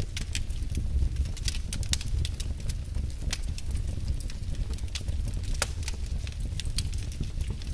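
Wood fire crackling in a fireplace: irregular sharp crackles and a few louder pops over a low steady rumble of the flames.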